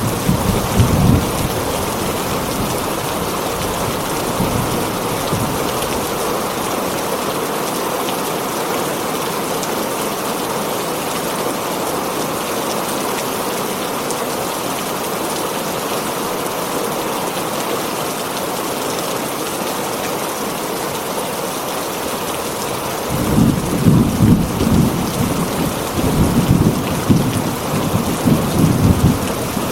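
Heavy rain falling steadily on a tin roof, with thunder rumbling low at the very start and again for the last several seconds.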